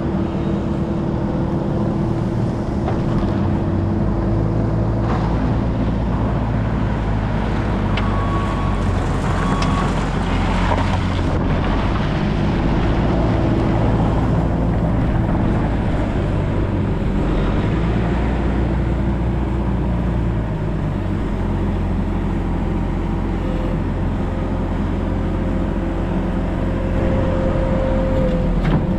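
Four-cylinder turbo diesel engine of a Case TR270 tracked skid steer running steadily, its engine speed shifting a few seconds in and again about two-thirds of the way through.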